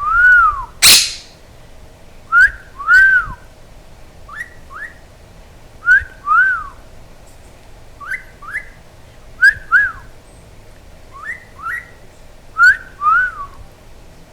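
Quaker parrot whistling a two-note wolf whistle over and over, a short rising note then an arched up-and-down note, about eight times at roughly one-and-a-half-second intervals. A single short, loud, harsh noise comes about a second in.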